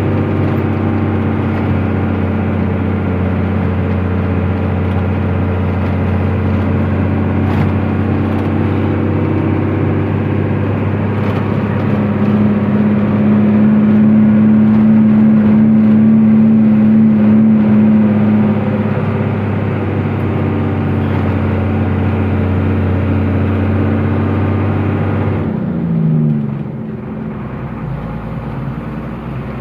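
A truck's engine drones steadily with a deep, many-toned hum while driving. Near the end the engine note drops away with a brief falling tone and the sound gets quieter.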